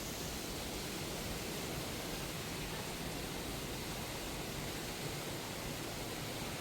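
Rushing water from a waterfall or stream, a steady even rush that does not change.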